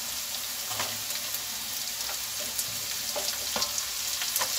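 Hot mustard oil sizzling in a kadai of frying onions and moong dal as diced radish is dropped in, with a few light knocks. The sizzle grows slightly louder near the end.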